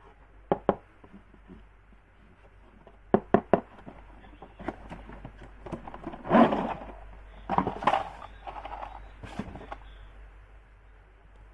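Plastic toys and packaging being handled: scattered sharp clicks and knocks, with a louder rustle about six seconds in.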